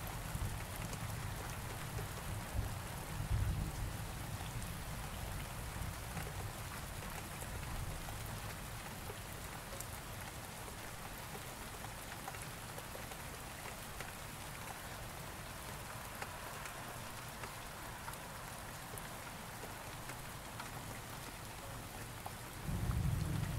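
Steady rain falling, with a low thunder rumble in the first few seconds that dies away. Another roll of thunder starts near the end.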